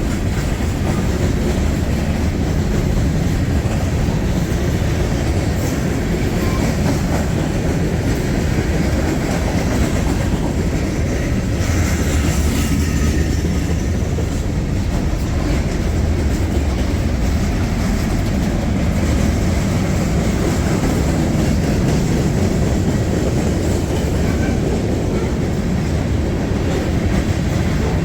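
A freight train's cars rolling past close by: a steady, loud rumble of steel wheels on rail.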